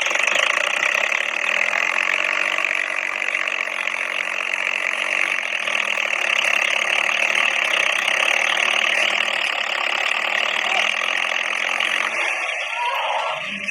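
Tractor diesel engine running steadily with a dense mechanical clatter; the sound changes near the end.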